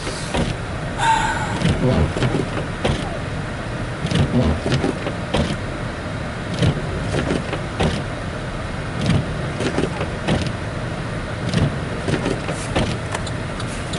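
Car cabin noise while driving on a snow-covered road: a steady low rumble with frequent, irregular knocks and thumps.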